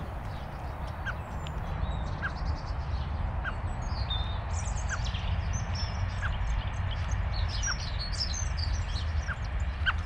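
Bird calls: a short rising note repeated about once a second, with fainter high chirps scattered between, over a steady low rumble.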